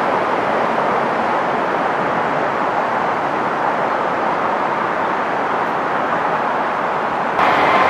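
Diesel multiple unit running past along the line: a steady rushing rumble of the train on the rails. Near the end the sound changes abruptly to a brighter, louder noise.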